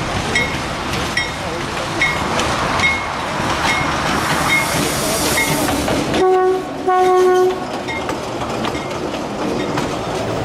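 A 1969 General Electric diesel locomotive passes slowly with its coaches, the wheels clicking at a steady beat of about one click every 0.8 s. About six seconds in it sounds its horn in two blasts, a short one and then a longer one.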